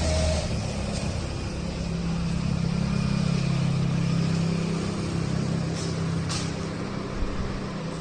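Tractor engine running steadily, its hum rising in pitch a little about two seconds in.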